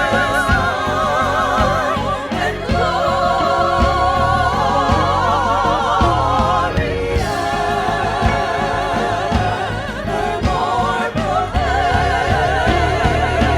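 Several voices singing sustained notes with wide vibrato over a steady instrumental accompaniment with a regular beat: a live Christmas concert performance.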